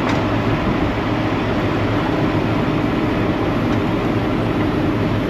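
Steady low drone of an idling heavy diesel truck engine, with a faint click or two from tools.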